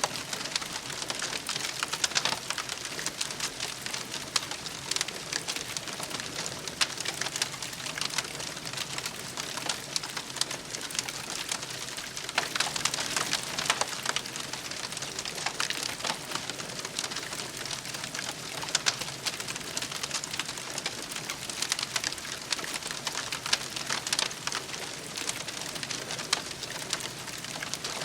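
Campfire burning with a steady hiss and irregular crackles and pops of burning wood.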